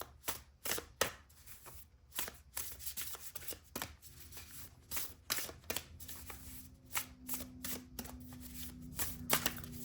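Tarot cards being shuffled by hand: a run of quick riffling and slapping clicks as the deck is worked.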